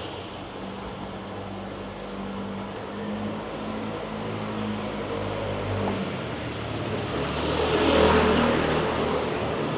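A motor vehicle's engine running steadily, then a vehicle passing close by, loudest about eight seconds in before fading.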